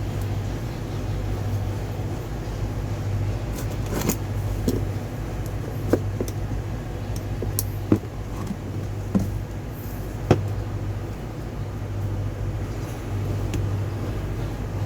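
A steady low mechanical hum, with a handful of sharp clicks and knocks through the middle.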